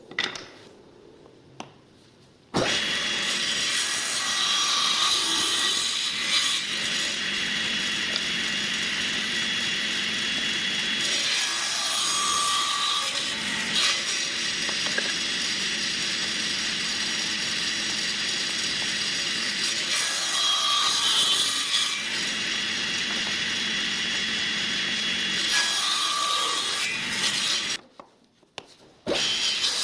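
A power tool working wood. It starts suddenly about two and a half seconds in, runs steadily with a brief swell every several seconds, and stops near the end before starting again.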